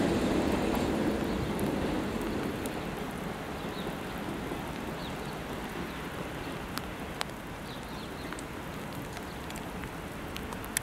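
The rumble of a Hamburg S-Bahn class 472 electric train going away fades over the first few seconds. A steady, rain-like hiss of background noise is left, with a few faint clicks.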